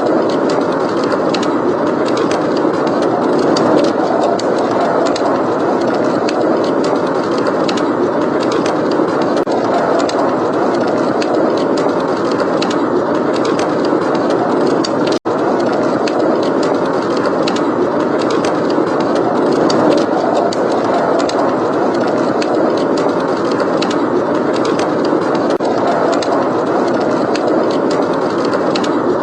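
Steady, heavy blizzard wind with a wood fire crackling over it in many small, sharp pops. The sound drops out for an instant about halfway through.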